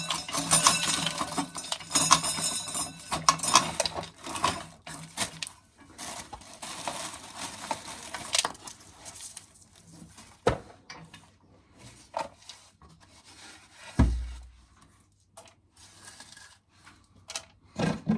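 Dry shelled corn kernels clattering, scraping and clinking as they are handled and gathered into a metal coffee can, dense at first and then thinning to scattered clicks, with one dull thump about three-quarters of the way through.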